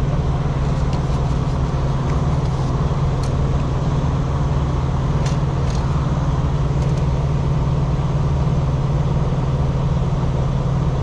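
Steady low drone of an idling engine, with a fine even pulse, and a couple of faint light clicks about three and five seconds in.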